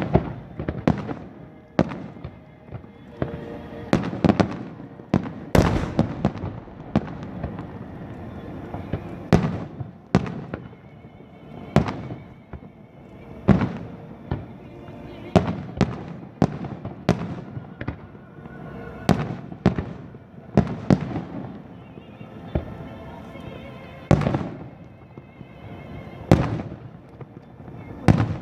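Aerial fireworks bursting in an irregular, rapid series of booms, each with a short echoing tail, over music playing in the background.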